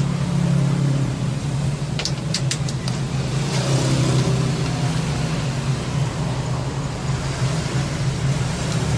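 Steady low hum of background noise, with a quick run of four or five sharp small clicks about two seconds in.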